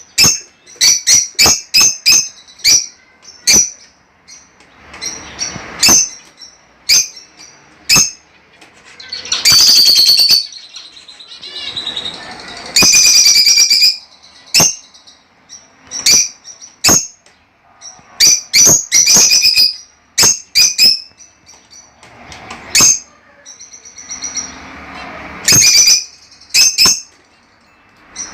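Pet budgerigars chirping: a run of short, sharp high calls, with two longer bursts of loud chattering about a third of the way in and near the middle.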